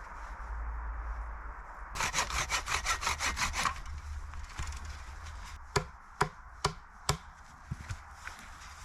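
Saw cutting wood in a quick run of rapid strokes lasting under two seconds, followed a couple of seconds later by four sharp wooden knocks about half a second apart.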